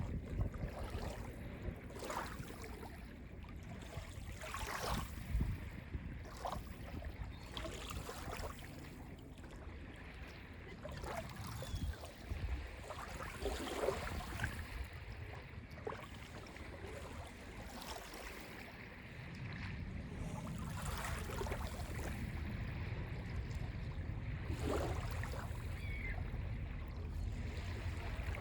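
Small lake waves lapping on a beach, with an irregular splash every one to three seconds over a low steady rumble that grows heavier about two thirds of the way in.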